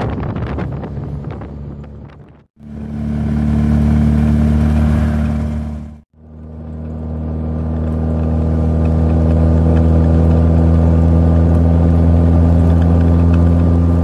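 Wind buffeting the microphone, fading out over the first couple of seconds. Then the Triumph Spitfire's 1500 four-cylinder engine on twin SU carburettors runs at a steady cruise on the road, with a brief dropout a few seconds in before the note settles and holds.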